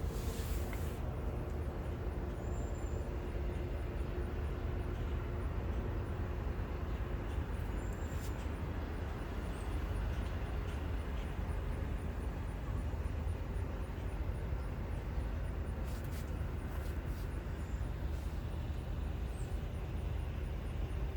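Steady low rumbling background noise, with a few faint short high chirps.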